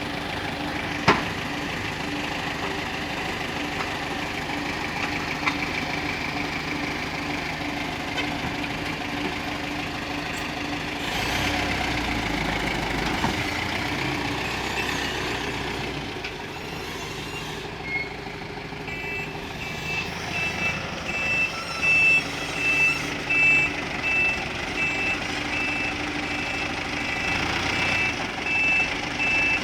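Dump truck engine running steadily, its low rumble building for a few seconds about a third of the way in. From about two-thirds of the way in, a reversing alarm sounds a regular series of high beeps as the truck backs up to unload fill.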